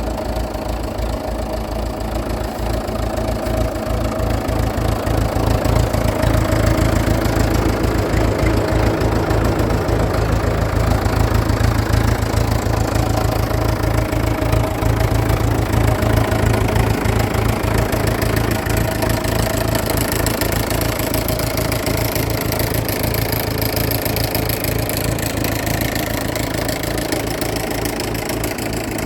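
Ford Major tractor's engine running at a steady idle with an even knock, swelling a little in level in the middle before easing back.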